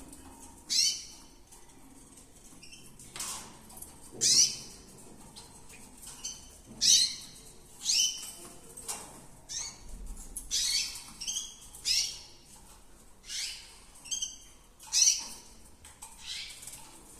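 Pet canary giving short, sharp, high-pitched chirps, a dozen or so, irregularly spaced about a second apart.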